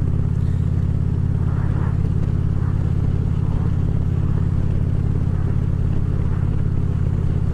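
2014 Harley-Davidson Ultra Classic Limited's V-twin engine running steadily at cruising speed, with an even low drone that holds one pitch throughout.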